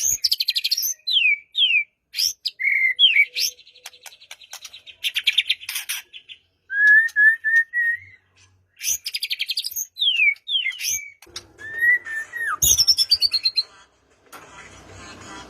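White-rumped shama (murai batu) singing in full, rapid song: quick bursts of varied whistles and sweeping glides, with dry rattling trills and short pauses between phrases. A faint steady hiss comes up near the end.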